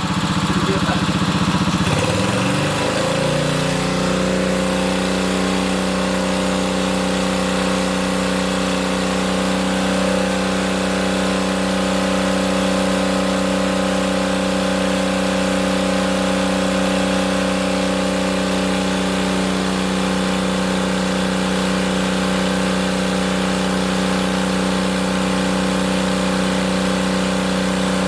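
An engine runs steadily. About two to four seconds in, its pitch rises and settles, then it holds an even, steady note.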